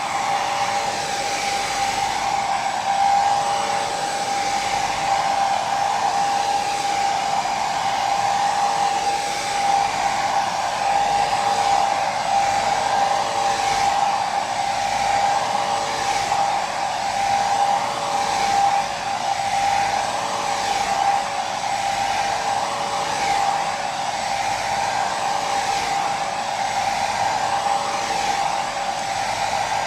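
Hair dryer running steadily, an even rush of blown air with a constant motor whine.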